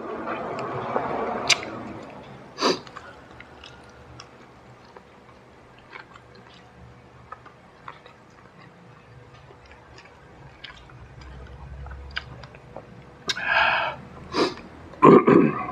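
Close-up mouth sounds of a man chewing crispy smashed fried chicken (ayam geprek) eaten by hand: wet chewing with small lip smacks and clicks, and a few louder mouth noises near the end.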